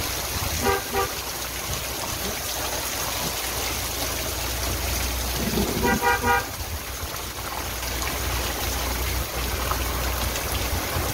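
Heavy rain pouring steadily onto a street, with a vehicle horn honking in short toots: a couple about a second in and a quicker run of toots around six seconds in.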